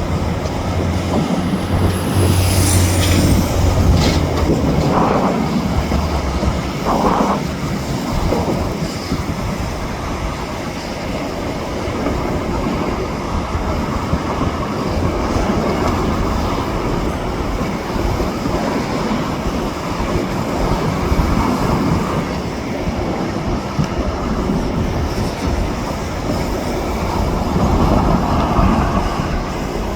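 Freight train cars rolling along the track, a steady rumble with wheels clicking over rail joints. A brief high wheel squeal about two seconds in, with a low locomotive drone in the first few seconds.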